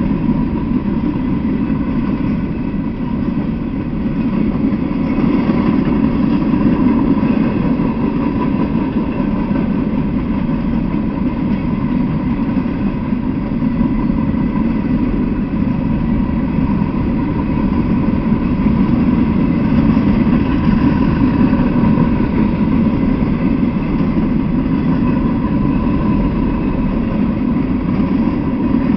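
Freight train of Norfolk Southern open-top hopper cars rolling past: a steady rumble of steel wheels on the rails, with a faint steady high tone throughout.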